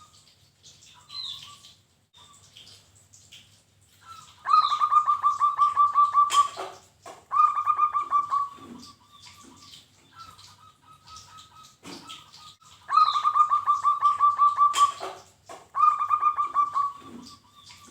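Zebra dove (perkutut) singing its rapid staccato cooing song in two bouts. Each bout is a long phrase of quick pulsed notes followed by a shorter one. Faint high chirps sound between the bouts.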